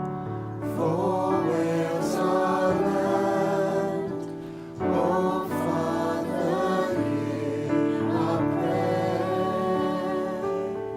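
Worship song: voices singing held, gliding phrases over steady instrumental accompaniment, a new phrase starting about a second in and another about halfway through.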